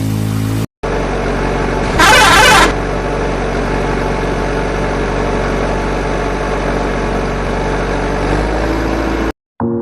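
Heavy vehicle engine running steadily under load, with a brief loud blast about two seconds in. Short snatches of music sit at the start and the end.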